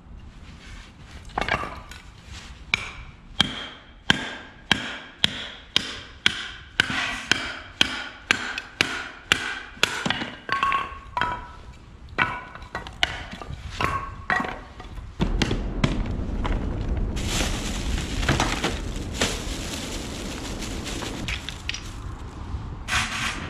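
A run of sharp knocks, about two a second, each with a short ringing tone, like blows of a hatchet or hammer. About fifteen seconds in they give way to a steady rushing noise.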